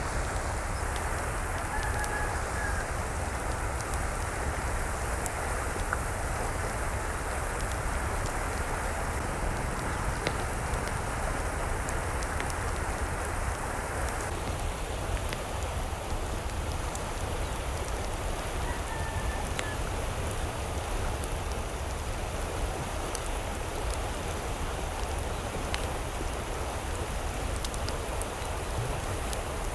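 Steady rain falling, an even hiss with scattered drop ticks; the character of the hiss changes abruptly about halfway through. A faint short bird chirp comes twice, near the start and again past the middle.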